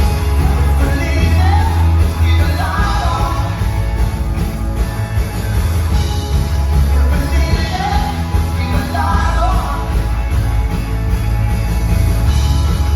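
Rock band playing live, loud and dense with a heavy bass line, with bursts of sung or shouted vocals twice.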